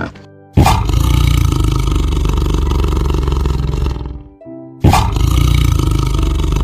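A large animal roaring twice, each roar starting suddenly and lasting about three seconds, over background music.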